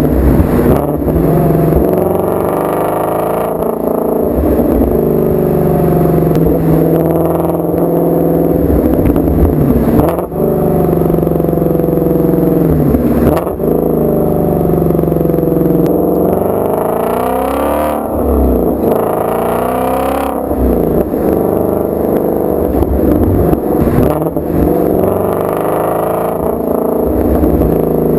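2016 Shelby GT350's 5.2-litre flat-plane-crank V8 and exhaust, driven hard and revving up repeatedly. The pitch climbs and drops sharply each time, several times over, as the revs rise and fall with shifts.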